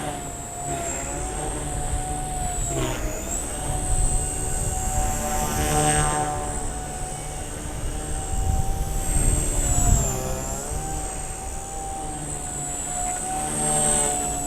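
Micro electric RC helicopter whining steadily, its pitch dipping and recovering several times as the rotors are loaded and unloaded, with wind rumbling on the microphone.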